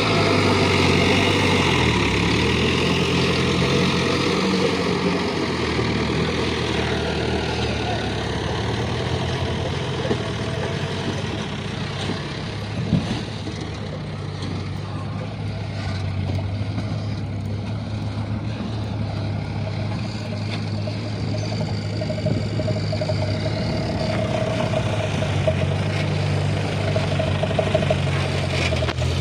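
Light dump truck's diesel engine running at low revs, a steady hum that is louder at first, eases off through the middle and builds again near the end, with one short knock about halfway.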